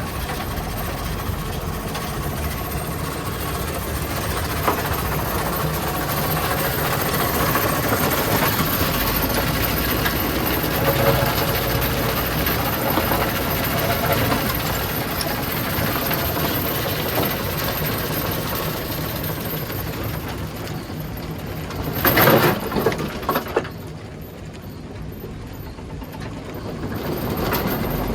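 Rock crusher and heavy machinery running, a steady loud mechanical noise with a low rumble underneath. About 22 seconds in there is a short louder burst, after which it is quieter for a few seconds before building again.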